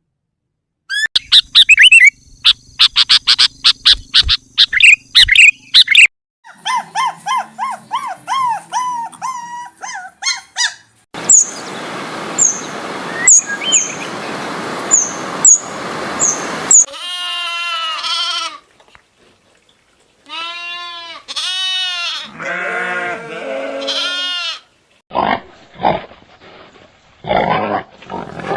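A run of different animal calls cut one after another: fast repeated pitched calls for the first few seconds, then a hissy stretch with high chirps, then a series of calls that rise and fall in pitch, ending in short sharp calls.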